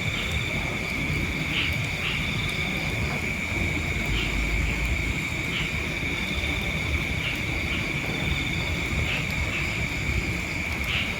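Steady high-pitched insect buzzing with short chirps every second or so, over a low rumble.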